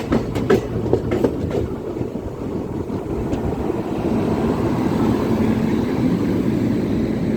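A train running on the track: a few sharp clicks of wheels over rail joints in the first second or two, then a steady low rumble that slowly grows louder.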